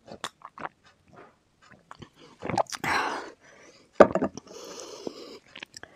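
Close-miked chewing and biting of spicy chicken feet curry and noodles: wet mouth clicks, with two longer noisy stretches in the middle and near the end.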